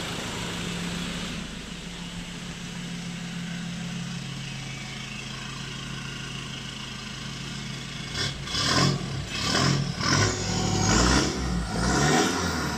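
Engine idling steadily through a newly made straight-pipe, side-exit exhaust, then revved in a series of quick blips from about eight seconds in.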